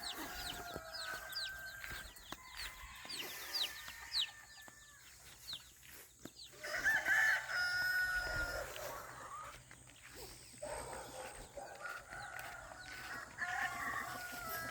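Flock of chickens, with roosters crowing and hens clucking, over many quick high chirps in the first few seconds. The longest, loudest crow comes about seven seconds in.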